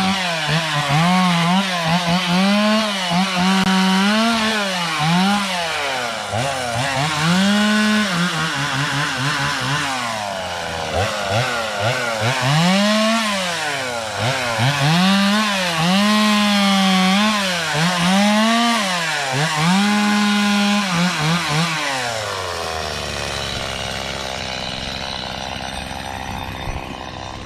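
Stihl two-stroke chainsaw revving again and again as it cuts wood: the engine holds at full throttle, then drops and climbs back, many times over. The saw stops about 22 seconds in, leaving a fainter steady noise.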